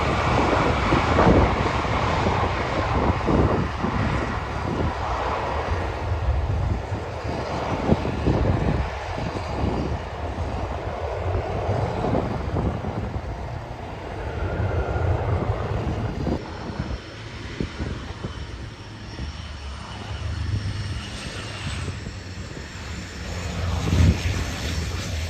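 Boeing 727-225F's three Pratt & Whitney JT8D turbofan engines running, a steady noisy rumble; a faint high whine comes in about halfway through.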